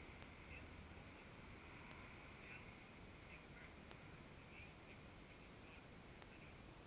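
Near silence: a faint steady hiss with faint, scattered high chirps and a few tiny clicks.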